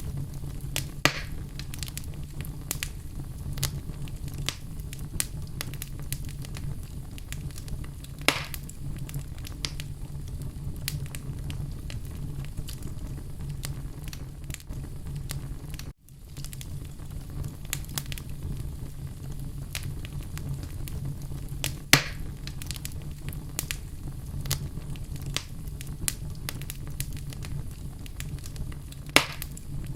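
Wood fire burning in a fireplace: a steady low rumble under frequent small crackles, with a few louder pops spaced several seconds apart. Halfway through, the sound drops out for an instant.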